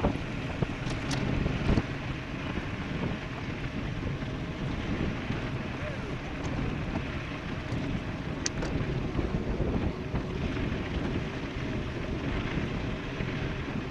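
Wind rushing over the microphone of a camera riding on a fast-moving e-bike, a steady noise with a few short faint ticks.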